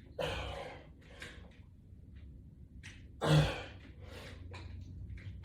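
A man breathing hard while exercising: a loud exhale just after the start, a smaller breath about a second in, and a louder, partly voiced exhale like a grunt about three seconds in.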